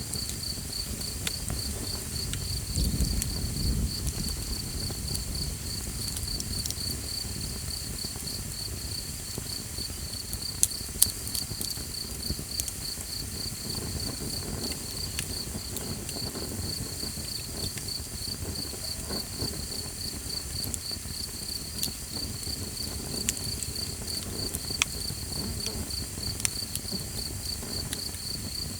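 Insects chirping in a fast, steady pulsed trill, with a campfire crackling and popping now and then in sharp clicks. A brief low rumble rises about three seconds in.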